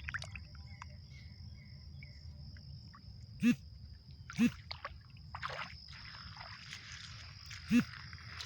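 Bare feet wading in shallow creek water, with sloshing splashes. Three are loudest: two about a second apart midway, and one near the end. A thin, steady high-pitched whine runs underneath.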